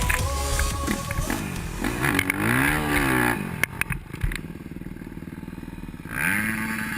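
Motocross dirt bike engine revving up and down several times, then settling to a steady lower running note from about four seconds in, with one more short rev near the end.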